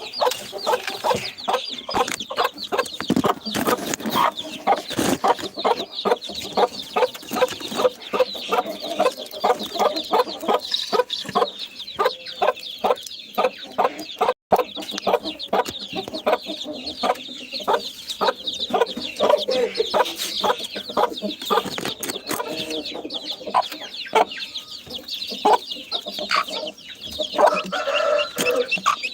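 A flock of chickens clucking continuously, many short calls overlapping.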